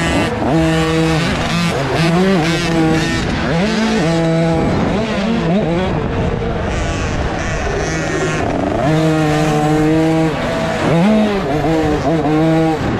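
KTM youth motocross bike engine, heard on board, revving up and down as it is raced, its pitch holding steady for a second or so between quick rises and drops.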